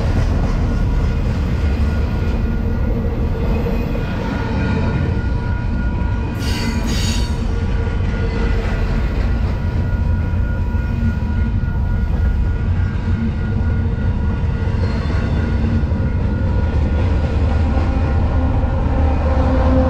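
Double-stack container well cars of a freight train rolling past close by: a steady rumble with wheel noise and a thin squeal, and a short, sharp high screech about six seconds in. Near the end a mid-train diesel locomotive's engine comes up loud as it draws level.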